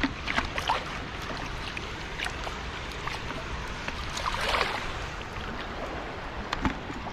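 Shallow seawater sloshing and splashing at the shoreline, with scattered small splashes and a louder swish of water about four and a half seconds in, over a low wind rumble.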